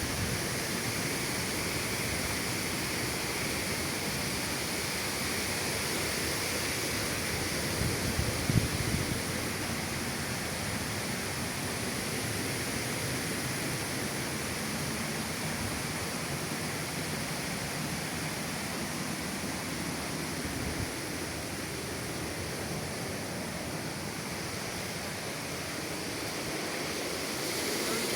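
Waterfall rushing: a steady, unbroken wash of falling water, with a few brief low bumps about eight seconds in.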